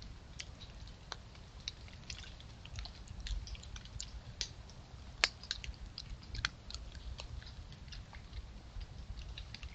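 An animal chewing close to a trail camera's microphone: irregular small crunching clicks, a few louder ones in the middle, over a steady low rumble.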